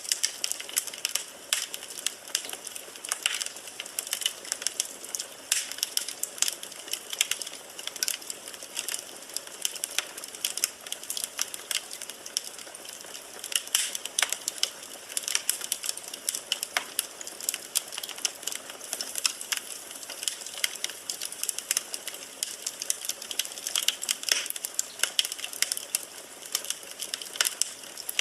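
Wood fire burning in a fireplace: firewood crackling with a steady hiss, sharp irregular snaps and pops coming several times a second.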